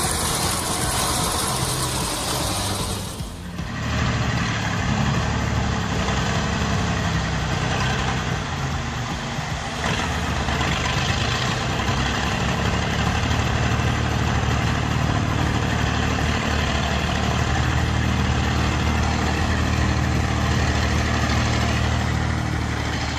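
Heavy vehicle's engine running steadily with a low drone. About three seconds in, the sound cuts from a broader noisy roar to the engine alone.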